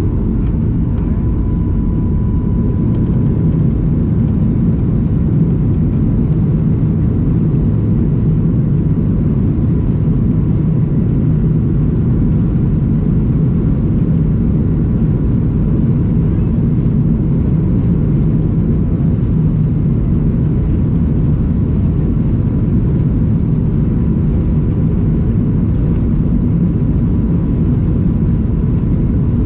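Boeing 737-800's CFM56-7B turbofan engines at takeoff thrust, heard from inside the cabin: a steady, loud deep rumble with a thin steady whine above it.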